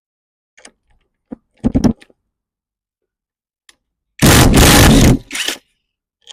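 Hand tools working the 12 mm bolts of a motorcycle brake caliper: socket ratchet and metal clicks. A cluster of clicks comes about a second and a half in, then a loud noisy burst of nearly a second about four seconds in, and a shorter one just after.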